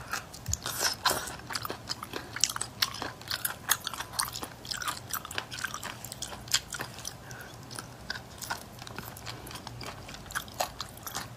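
Wet mouth sounds of eating whole cooked octopus close to a clip-on microphone: chewing, lip smacks and sucking on the tentacles, a dense irregular run of sharp, sticky clicks.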